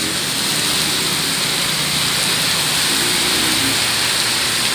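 Heavy rain with hail pouring down: a steady, dense hiss.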